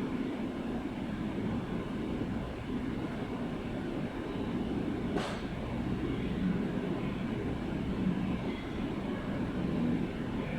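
Steady low rumbling noise with no breaks, and one sharp click about five seconds in.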